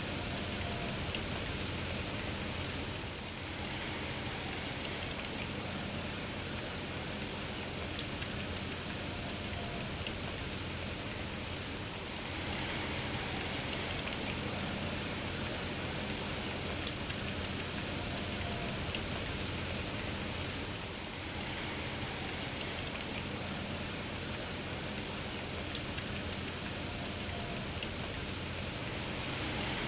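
Steady rain falling. Three sharp ticks stand out above it, about every nine seconds.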